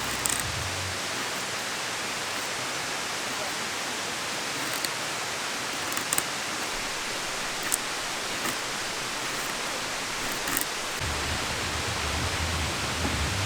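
A steady, even rushing noise, like running water or rain, with a few faint ticks scattered through it.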